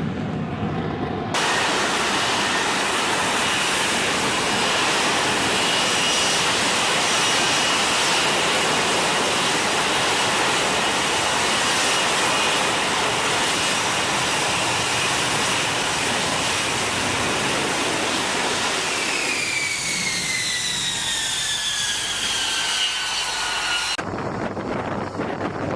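F-35B's Pratt & Whitney F135 jet engine roaring at high power, with a steady high whine over the roar. The roar starts abruptly about a second in, its whine falls in pitch over the last few seconds as the jet goes by, and it cuts off shortly before the end, leaving wind noise.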